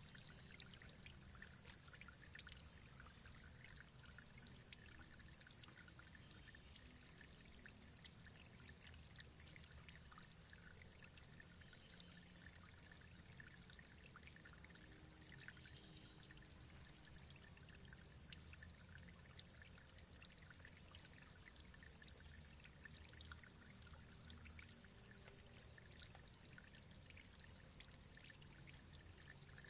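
Faint running water trickling steadily, with many tiny splashes and drips.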